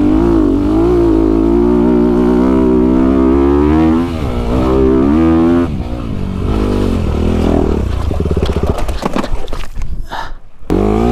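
Dirt bike engine running hard, its pitch rising and falling as the throttle is worked. The sound drops away for a moment near the end and then comes back.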